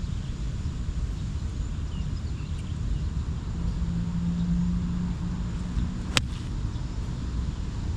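A small vehicle running with a steady low rumble, a steady hum rising in for about two seconds midway, and one sharp click a little after six seconds in.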